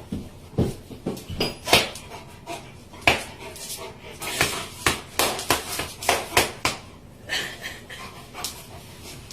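An irregular series of thumps and sharp knocks, bunched at times two or three a second, from about half a second in to about seven seconds in.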